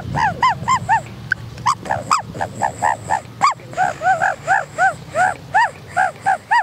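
A man imitating a dove's call with his voice: a quick series of short rising-and-falling notes, repeated about two to three times a second with a brief break.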